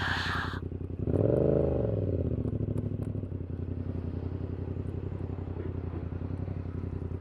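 Yamaha XSR700's 689 cc parallel-twin engine through a Kelpi short full exhaust with standard baffle, heard as the bike is ridden. About a second in the revs rise briefly and fall back, then it settles into a steady lower note. A brief hiss sounds at the very start.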